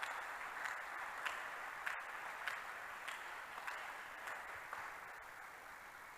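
A congregation applauding, fairly faint, with sharp single claps about every 0.6 s standing out from the clapping. It dies away toward the end.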